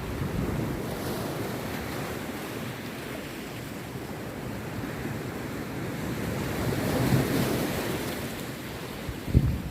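Rough sea surf breaking on a beach in a steady wash that swells to a louder crash about seven seconds in. Wind buffets the microphone in low thumps near the end.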